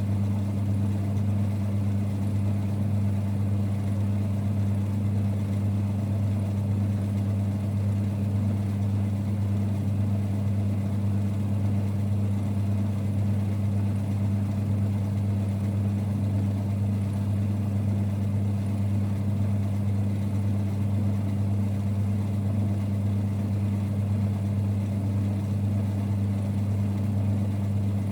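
A 1946 Boxford lathe running with a steady low rumble, an even hum that holds constant with no change in pitch or level.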